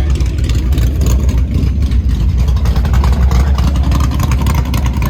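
A car engine running steadily close by, with a deep, even rumble.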